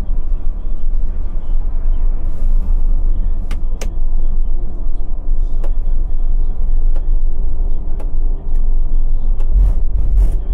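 Scania K450 bus under way, its diesel engine and the road making a loud, steady deep rumble. Several sharp clicks come at irregular intervals through it.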